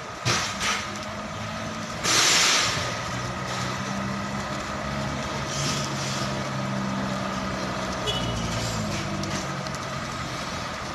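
Container truck letting out a loud hiss of air from its air brakes about two seconds in, after a couple of short knocks. Its engine then runs steadily underneath.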